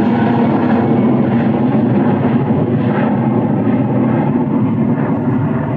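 Jet airliner engines running loud and steady, the high hiss slowly fading.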